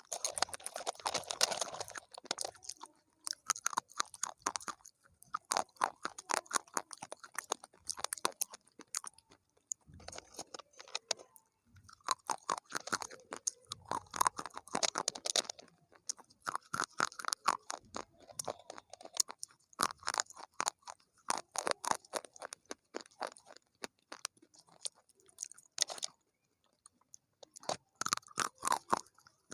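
A person chewing crunchy food, in bouts of rapid crisp crunches a second or few long with short pauses between them.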